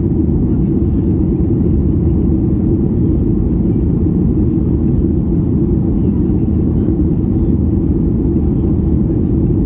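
Steady low rumble of cabin noise inside a Boeing 737-800 airliner, from its CFM56 jet engines and the airflow, holding an even level throughout.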